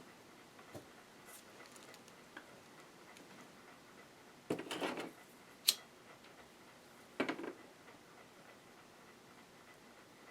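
Janome ME4014 sewing machine being handled as its stuck mechanism is tried and will not turn: about halfway through, a short rattle and a sharp click, then another short rattle a couple of seconds later.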